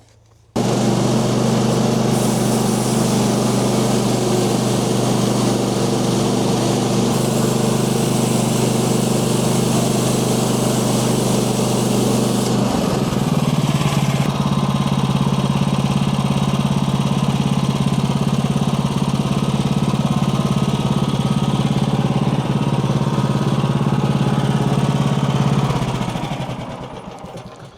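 Portable band sawmill running on its Kohler engine and sawing a log, testing a band blade freshly touched up with a Dremel stone. The steady engine note starts abruptly, shifts slightly about halfway through, and dies away near the end.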